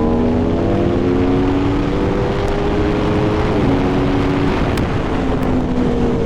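Motorcycle engine under hard acceleration in third gear, its pitch rising steadily, dropping at an upshift about three and a half seconds in, then climbing again, over a steady rush of wind.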